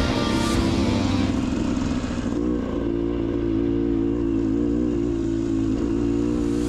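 Dirt bike engine running on a trail ride, its pitch wavering slightly with the throttle. Guitar music fades out in the first couple of seconds.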